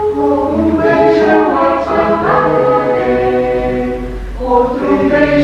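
Choir singing in several parts, with long held notes that change every second or so.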